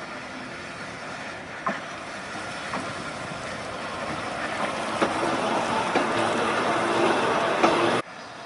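A Volk's Electric Railway car running along its narrow-gauge track, growing louder, with scattered sharp clicks from the wheels over the rails. The sound cuts off suddenly near the end.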